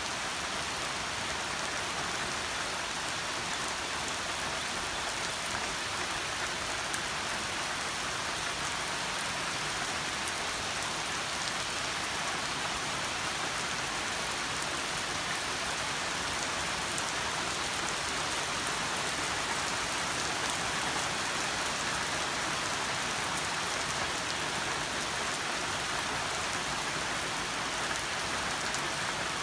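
Heavy rain falling steadily on a swimming pool and its paved deck, an even wash of noise with the faint patter of individual drops.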